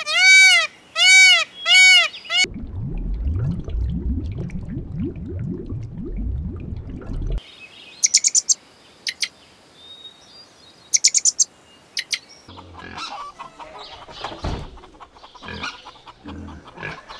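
A peacock calling: a quick run of loud, rising-and-falling honking calls over the first two seconds or so. A low rumbling stretch follows, then two short clusters of sharp, high chirps, then faint clicks and rustles.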